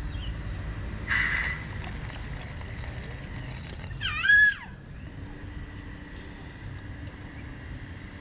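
Paint thinner poured into a graduated mixing cup, a faint sloshing gurgle over a steady low rumble, with a short noise about a second in. About four seconds in comes a brief, loud, high squeak whose pitch bends up and down.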